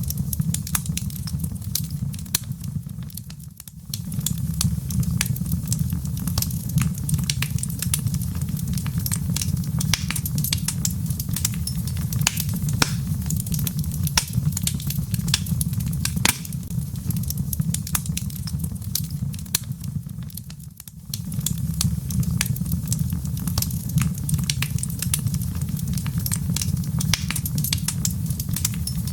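Log fire in a fireplace crackling, with many sharp pops and snaps over a steady low rumble of the flames. The rumble briefly drops away twice, about three and a half seconds in and again about twenty-one seconds in.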